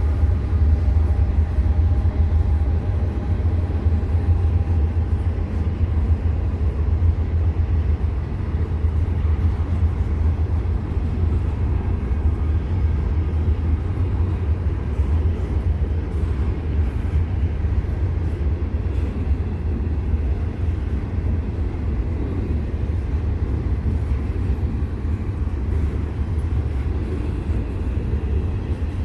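Freight train's diesel locomotives working upgrade, a steady deep rumble without letup.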